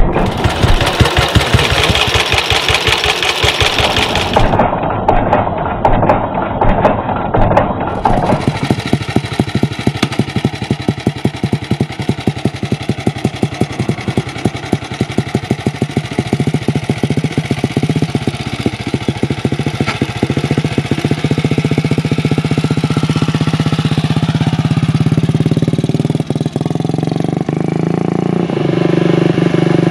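Moto Guzzi GTW 500's horizontal single-cylinder engine running with slow, distinct firing beats. Over the last several seconds it rises in pitch as it revs up.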